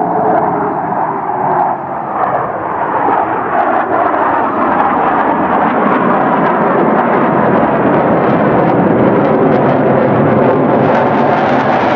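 Loud, steady roar of an aircraft flying past, with a falling pitch near the start as it passes.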